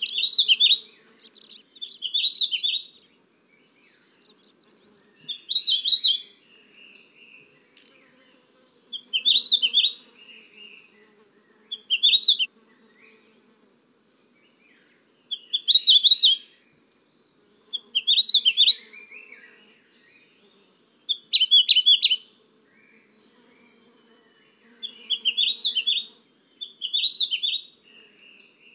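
A small songbird chirping in short, quick phrases, about ten bursts of high-pitched notes spaced every two to three seconds, over a faint steady low buzz.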